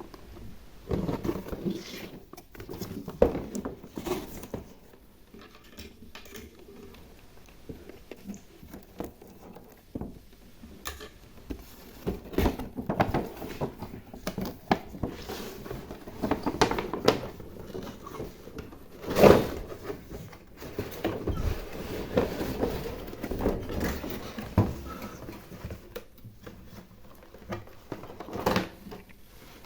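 Slime being handled with small plastic charms and shiny trinkets: irregular sticky squishes and pops with small clicks and taps, one louder pop about two-thirds of the way through.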